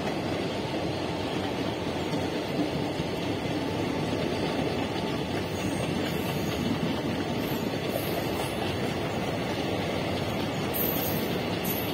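Indian Railways passenger coaches running past: a steady rumble and rattle of wheels on rail, with a few faint, brief high squeaks now and then.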